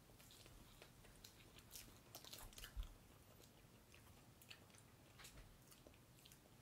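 Faint chewing of marshmallow Peeps by two people: soft, sticky mouth clicks and smacks, busiest two to three seconds in.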